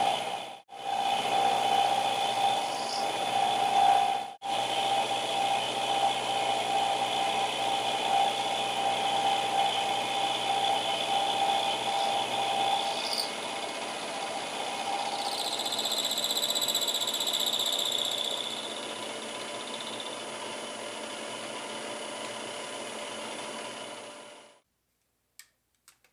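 Milling machine cutting steel flat bar: a steady mechanical whine with a high, squeal-like ring from the cutter. It stops abruptly about a second and a half before the end, followed by two faint clicks.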